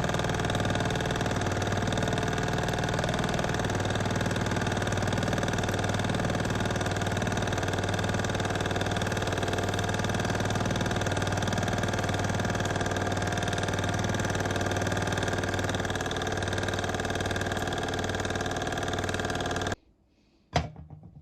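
Mamod TE1A live-steam model traction engine running steadily under steam, its single oscillating cylinder and gearing turning over evenly. The sound cuts off abruptly near the end, followed by a single sharp click.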